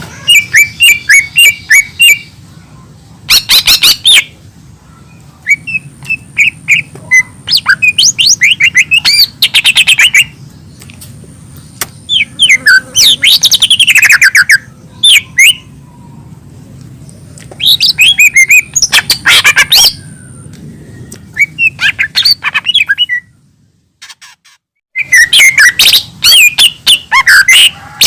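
Lesser green leafbird (cucak ijo mini) singing loud bursts of fast chirps, sweeping whistles and rapid trills, separated by short pauses. The sound drops out briefly near the end, then the song resumes.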